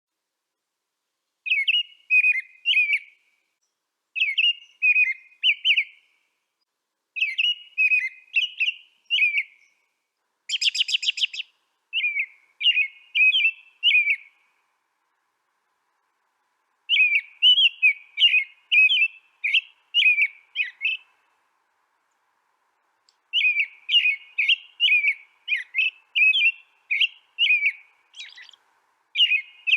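A songbird singing in short phrases of quick chirping notes, each phrase lasting a second or two, with silent pauses between them. About ten seconds in there is one harsher, buzzy note.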